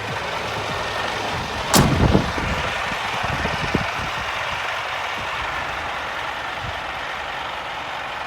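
Scania P 230 truck's diesel engine running steadily, with a loud sharp thump about two seconds in and a smaller knock a couple of seconds later.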